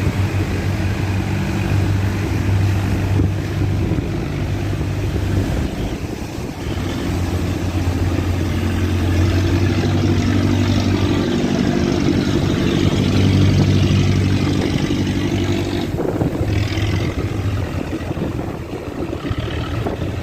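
Boat engine running steadily under load, pushing a boat upstream against the current.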